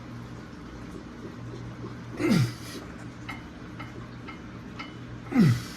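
A man grunting twice with effort, each grunt falling in pitch, as he strains by hand to turn over a seized 1963 Thunderbird V8, with a faint low hum and a few light ticks between.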